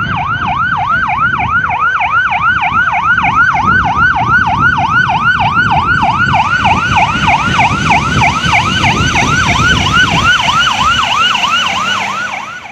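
Fire engine's electronic siren in fast yelp, sweeping up and down about four times a second, over the truck's engine and road rumble. It cuts off suddenly near the end.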